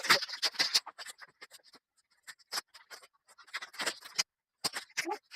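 Irregular clicks, taps and scrapes of crib parts being handled and fitted together during assembly. The clicks come thick in the first couple of seconds, thin out in the middle, and pick up again near the end.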